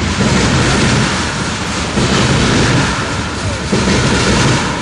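Freight train tank cars rolling past close by: a loud, heavy rumble of wheels on rail that swells and eases about every two seconds as each car goes by.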